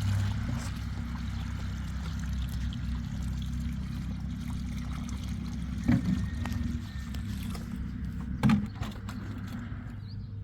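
Engine of a concrete mixer running with a steady low drone. Two sharp knocks come about six and eight and a half seconds in.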